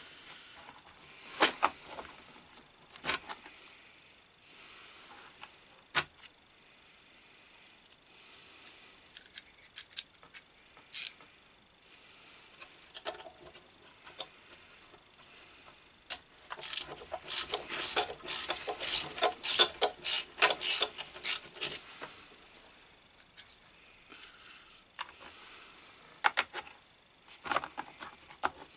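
Ratcheting screwdriver clicking in quick runs as Phillips screws are worked loose on the grinder, the densest clicking lasting about six seconds past the middle. Scattered knocks and handling noises of tools and parts come before and after.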